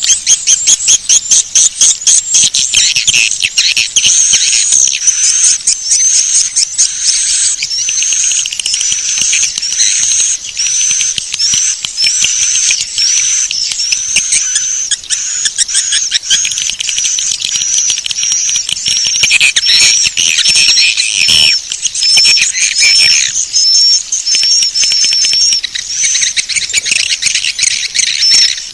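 Swiftlet call lure recording: edible-nest swiftlets twittering in a dense, rapid stream of high chirps and clicks, with a short high chirp repeating about once a second.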